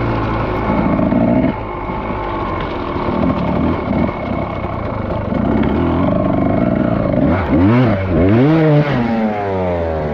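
Dirt bike engine running under load, its revs rising and falling, then several quick throttle revs near the end.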